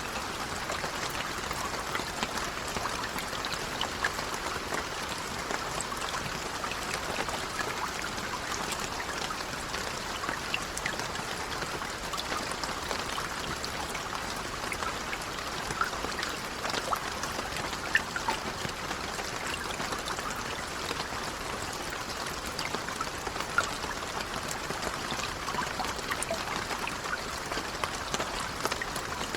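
Steady gentle rain, an even hiss scattered with the small sharp ticks of individual drops.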